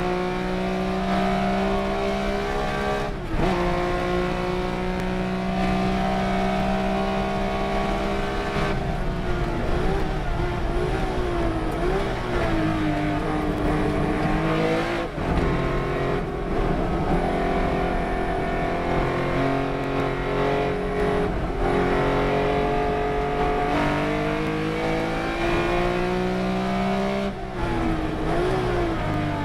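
Race car engine at racing speed, its pitch climbing steadily through each gear and dropping abruptly at the gear changes a few seconds apart, with brief dips and wavering revs where the driver lifts and brakes for corners.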